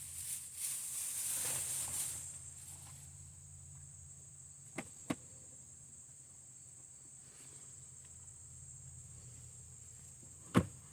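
Two sharp clicks about five seconds in and a loud knock near the end, over a faint steady high-pitched insect-like buzz.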